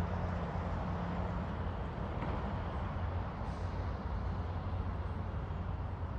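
Road traffic: a steady low vehicle rumble over a faint noise haze. A low engine tone fades out about a second and a half in.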